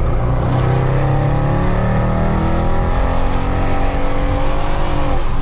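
Mercedes C63 AMG's 6.2-litre V8, with secondary cats and resonators deleted, pulling hard under acceleration on track. The engine note climbs steadily in pitch for several seconds, then dips near the end as the throttle eases off.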